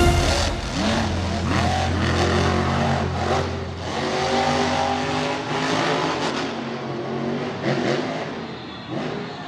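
Monster truck engines revving, the pitch rising and falling again and again, fading away near the end.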